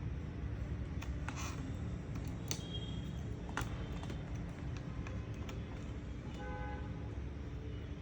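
A few sharp plastic clicks and taps from a laptop case being handled and pried at during disassembly, over a steady low rumble and hum. A brief horn-like toot sounds about six and a half seconds in.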